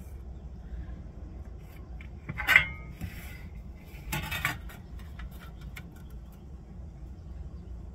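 Metal clanks and clinks as a speed square and sheet of metal shim stock are handled on the work surface: one sharp ringing clank about two and a half seconds in, a second rattle about a second and a half later, then a few light ticks.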